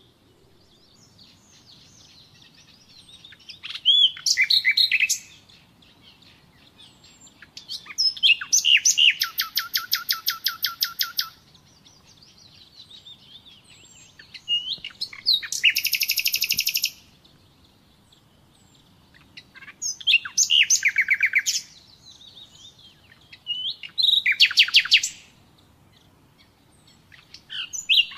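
Common nightingale singing in separate phrases a few seconds apart, several of them rapid runs of repeated notes, with short quiet gaps between phrases.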